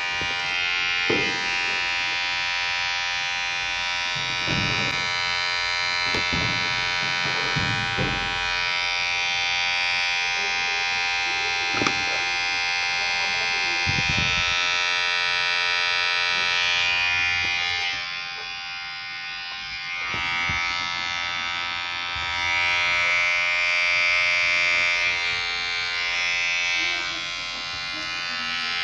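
Electric hair clipper running with a steady, vibrating buzz. A few brief sweeps break through in the first half, and the buzz drops briefly twice in the second half.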